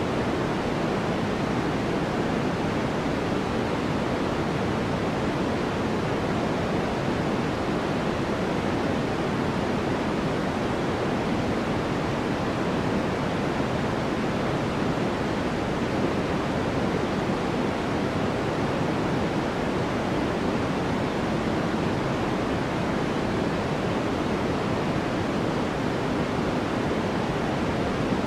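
Steady white-noise track: a deep, even hiss that never changes.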